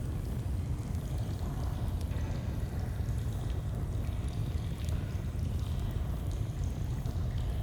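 Steady rush of a flowing stream, with faint scattered crackles of a campfire over it.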